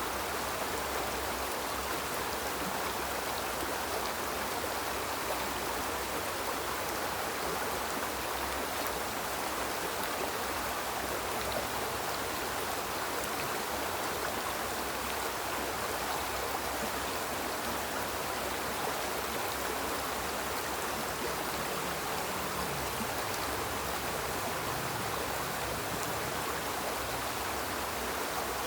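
Small river flowing over rocks: a steady, even rushing and babbling of water.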